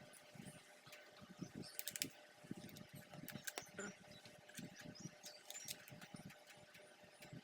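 Faint scattered clicks and soft knocks of handling noise over a faint steady hum.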